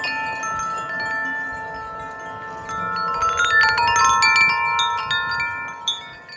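Music of the Spheres tuned tubular wind chime rung by gusty wind, several tubes ringing and overlapping. A louder flurry of strikes comes about three seconds in, then the ringing fades near the end.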